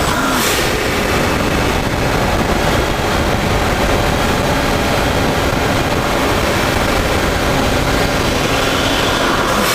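Mercedes-Benz CL600's twin-turbo M275 V12 running steadily as the car drives, with a short burst of hiss about half a second in and another near the end.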